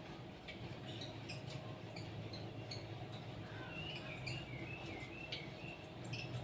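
Small birds chirping in short high notes, with a quick twittering run in the middle, over a steady low hum.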